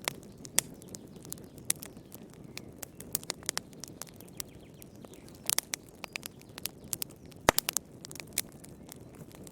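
Fireplace fire crackling: irregular sharp pops and snaps over a low, steady rush of flame. A cluster of pops comes about five and a half seconds in, and the loudest single pop about seven and a half seconds in.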